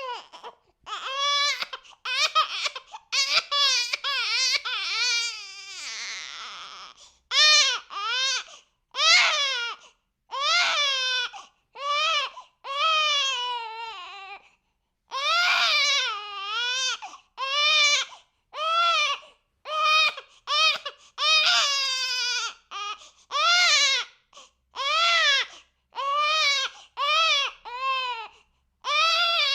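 A baby crying hard in a long run of separate wails, each rising and falling in pitch, with short breaths between them. About five seconds in, one cry turns hoarse and trails off before the wailing starts again.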